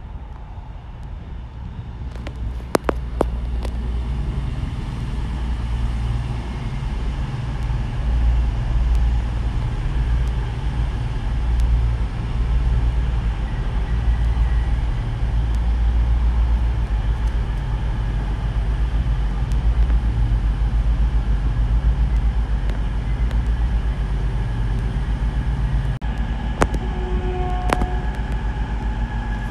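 A train running on the line behind the fence: a steady low rumble that swells about two seconds in and holds, with two sharp clicks, one near the start and one near the end.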